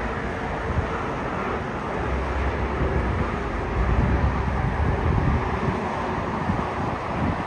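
Wind buffeting the microphone in gusts, strongest around the middle, over the steady rush of jet aircraft noise at the airport.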